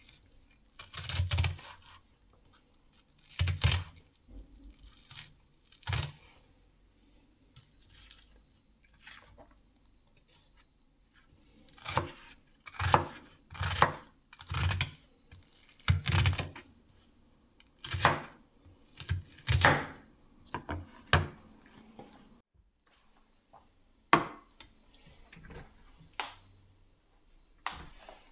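Food preparation in a kitchen: a series of short, separate tearing and thudding handling sounds, spaced irregularly a second or two apart, sparser for a few seconds before the middle.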